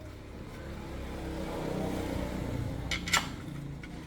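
Small motorbike engine running, swelling in level for a couple of seconds and then easing back, with one sharp click a little past three seconds in.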